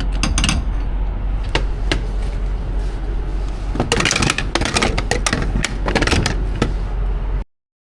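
Jeep Gladiator driving a rough, icy dirt trail: a steady low rumble from engine and tyres with repeated clunks and knocks from the truck bouncing over the ground, busiest in the middle. The sound cuts off abruptly near the end.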